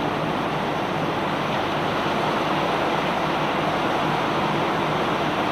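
Barge unloading machinery moving a load of cobblestones, a steady, even rushing noise with a low hum underneath.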